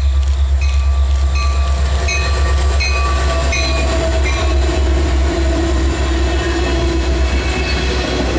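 Two CSX SD70AC diesel-electric locomotives passing close, their engines giving a deep, pulsing rumble, with short ringing dings about twice a second through the first four seconds or so. Then a train of coal hopper cars rolls by on steel wheels.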